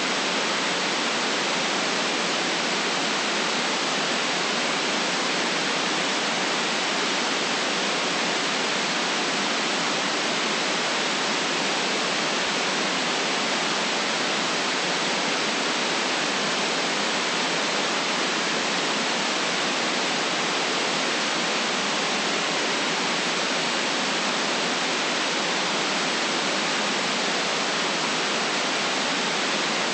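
Steady white noise: an even, unchanging hiss with the deepest bass and highest treble cut away.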